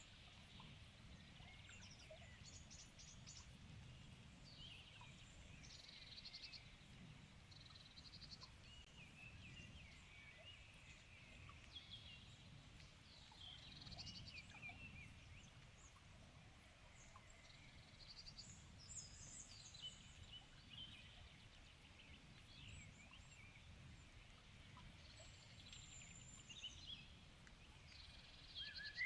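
Faint evening chorus of several songbirds, short chirps, trills and whistles from different birds overlapping, over a low steady background rumble.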